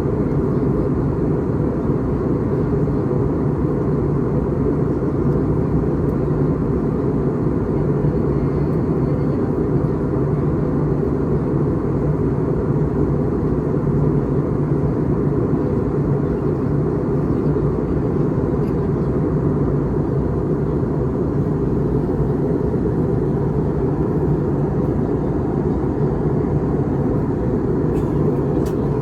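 Steady cabin drone of an Airbus A321neo airliner in flight: engine and airflow noise heard from inside the passenger cabin, deep and unchanging, with a couple of faint ticks near the end.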